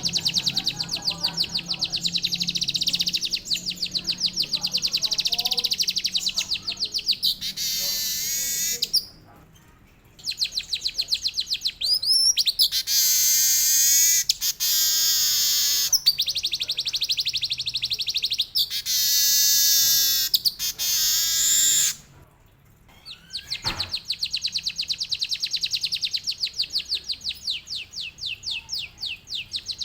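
A manyar (weaver bird) singing, with long rapid trills of repeated notes broken by louder rolling, warbling phrases in canary-like style. Two short pauses fall about a third of the way through and again about three quarters of the way through.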